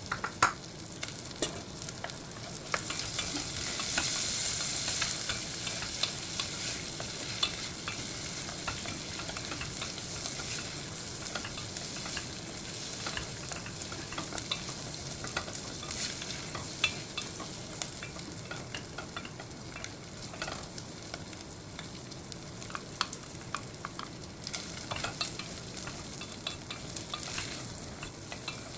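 Food frying and sizzling in a pan, stirred with a utensil that clicks and scrapes against the pan again and again. The sizzle is loudest a few seconds in.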